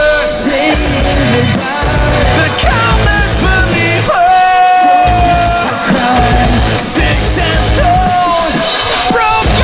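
Live rock band playing an instrumental passage: a lead melody of bending, held notes over a driving bass and drum pulse, with one long sustained note about four seconds in.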